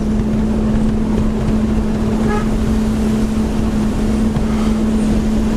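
A car driving, heard from inside: engine and road noise with a steady low drone.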